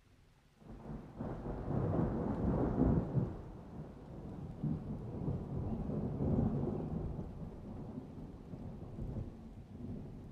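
Rolling thunder: a low rumble that builds about a second in, swells twice and slowly dies away.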